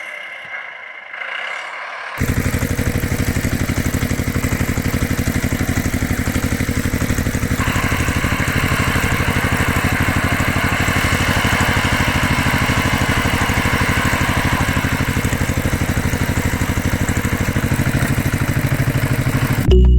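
An engine running steadily with a fast, even pulsing beat. It starts abruptly about two seconds in, gains a brighter upper layer a third of the way through, and cuts off sharply just before the end.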